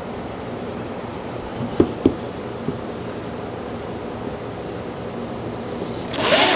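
Steady mechanical hum with a couple of light knocks about two seconds in, then a short burst of a power drill driving a screw near the end.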